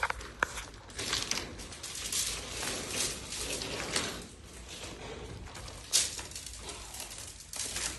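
Copper pipe being handled and worked: irregular scraping and rustling, with sharp clicks right at the start, about half a second in, and a louder one near six seconds in.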